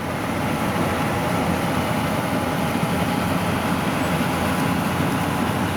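Rice combine harvester's engine and cutting mechanism running steadily while it cuts rice.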